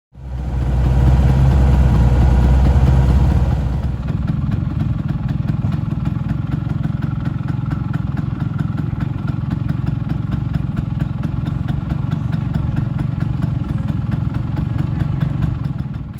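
An engine running, loudest for the first four seconds or so and then settling to a steady run with a fast, even pulsing.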